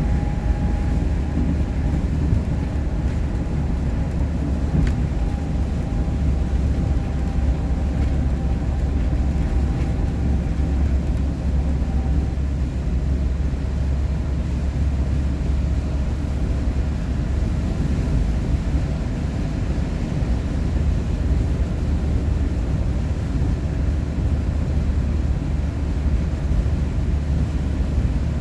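Steady low rumble of a vehicle driving on the road, heard from inside: engine and road noise at an even level.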